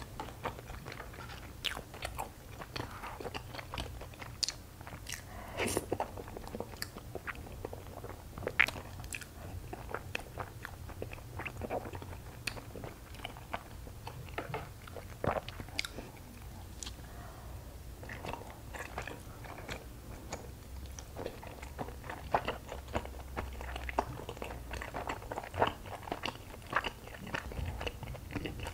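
A person chewing soft, sticky rice cake (injeolmi) close to the microphones, with frequent irregular wet mouth clicks and smacks.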